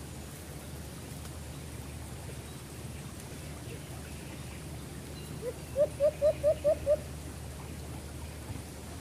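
A bird calling: one short note, then a quick run of six short, rising notes at about five a second, midway through, over a steady low background hiss.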